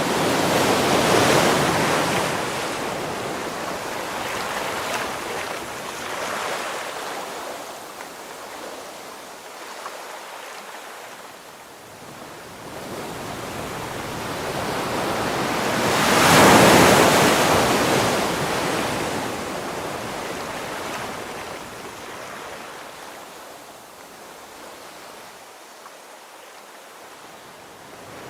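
Ocean waves breaking on the shore: two big waves crash, about a second in and again about 16 seconds in, each followed by a long fading wash, with smaller surges between.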